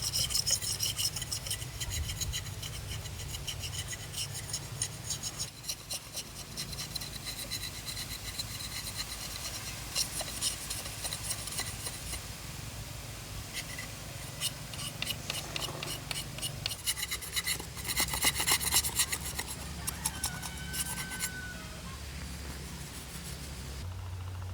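Rapid rasping, scraping strokes on wood, coming in runs with short pauses between them.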